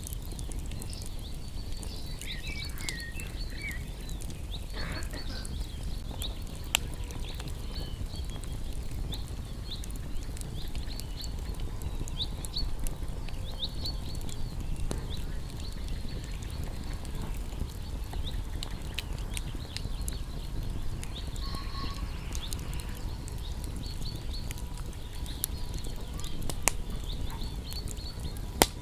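Wood fire crackling, with a steady rush and occasional sharp pops, while small songbirds chirp throughout in quick high notes.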